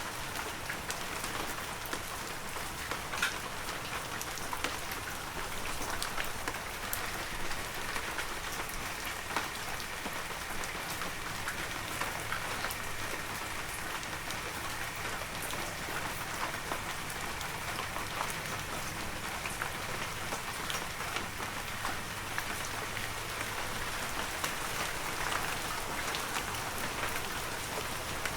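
Heavy rain falling steadily on forest foliage and ground, a dense hiss spotted with the sharp ticks of individual drops.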